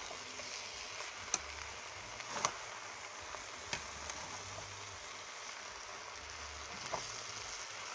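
Okra soup base of chopped okra, pepper, crayfish and meats sizzling steadily as it fries in a pot while being stirred, with a few sharp clicks of the stirring utensil against the pot.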